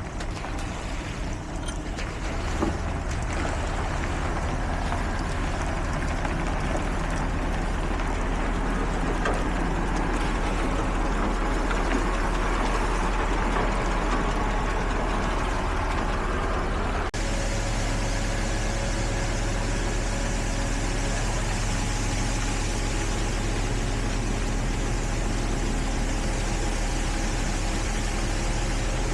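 Heavy diesel construction vehicles running steadily, a continuous engine hum with a broad mechanical noise over it. The sound changes abruptly a little past halfway, as at a cut to another shot of machinery running.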